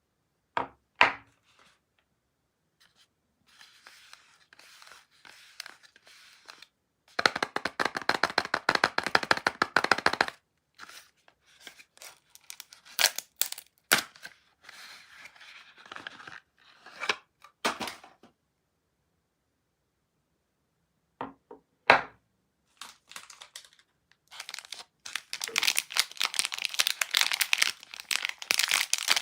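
Soap packaging being unwrapped by hand: wrapper tearing and crinkling in dense bursts, with separate clicks and taps between, and a short quiet pause past the middle.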